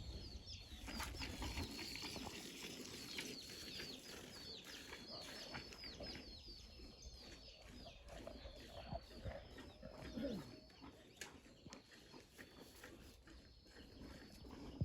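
Birds chirping in many short, high calls that slide downward, with a lower, falling call from a farm animal about ten seconds in.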